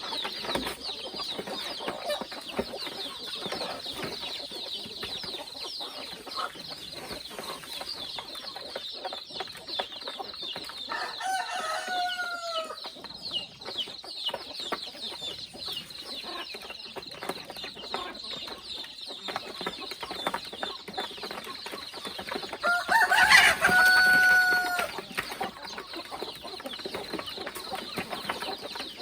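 A flock of free-range chickens clucking and peeping continuously, with a rooster crowing twice, the second crow about two-thirds of the way through much louder.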